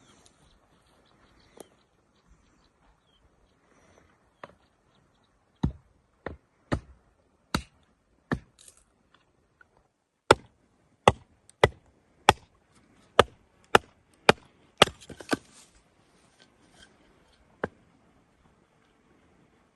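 Repeated chopping strikes on wood, irregular single blows about one or two a second, heaviest and most frequent in the middle stretch, with a few softer taps between them.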